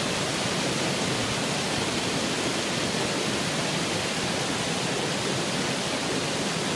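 Creek waterfall with water rushing steadily, an even unbroken noise.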